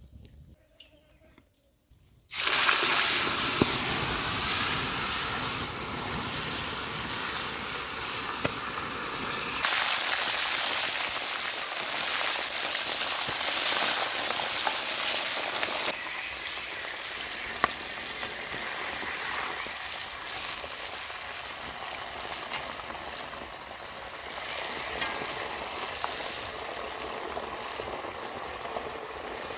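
Food frying in hot oil, sizzling steadily. It starts suddenly about two seconds in, and its level shifts a couple of times.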